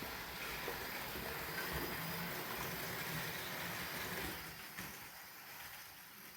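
Trix HO-scale model locomotive running on track, its small electric motor humming with wheel and rail noise, dying away about four and a half seconds in.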